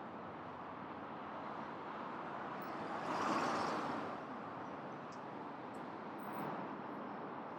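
City street traffic noise, with a vehicle passing close about three seconds in, swelling and then fading, and a smaller pass near the end.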